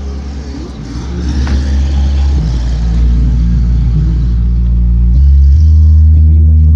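Loud music with heavy sustained bass notes playing through a car's installed sound system and subwoofer; the bass note changes about five seconds in.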